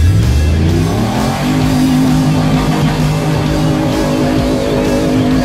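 An off-road 4x4's engine revving up over the first second and a half and then held at high revs while its tyres spin through mud. Guitar music plays underneath.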